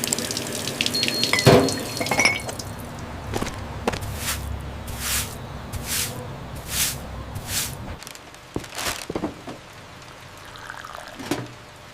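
Water dripping in separate drops, roughly one a second, over a low steady hum that stops about two-thirds of the way through. A single sharp knock comes early.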